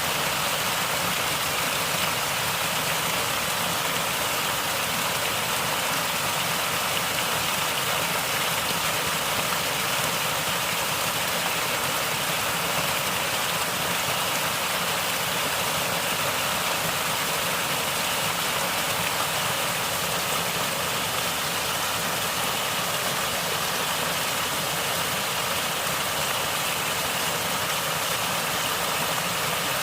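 Natural stream water flowing and gurgling steadily, an even rushing hiss that does not change.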